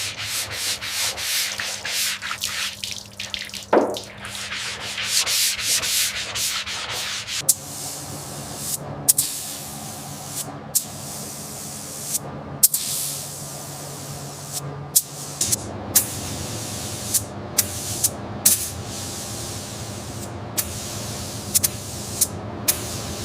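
Abrasive sanding, rubbing strokes on a surface. It is continuous at first, then comes in separate strokes with brief pauses between them about every second or two.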